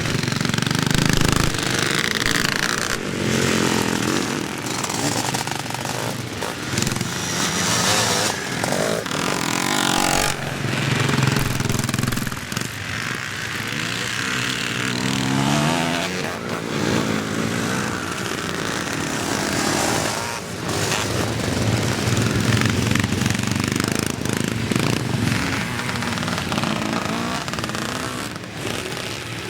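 Several classic motocross bikes racing, their engines revving up and down continuously as they accelerate and back off around the track.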